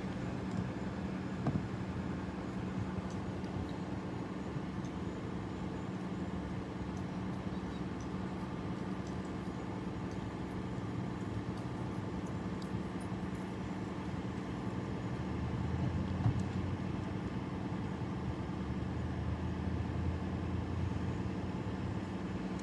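Steady engine hum of a motor vehicle running nearby, with a deeper engine note coming in about two-thirds of the way through and a couple of faint clicks.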